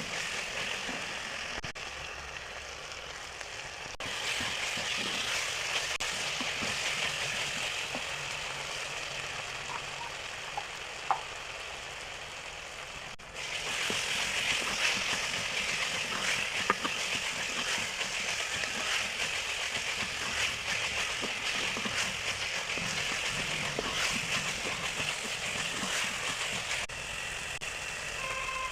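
Food frying in hot oil in a pan: a steady sizzle with small crackles, changing abruptly a few times.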